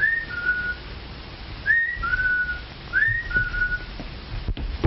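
A person whistling the same two-note call three times, about a second and a half apart: each call slides up to a short high note, then holds a lower note. It plays over the steady hiss of an early sound-film soundtrack.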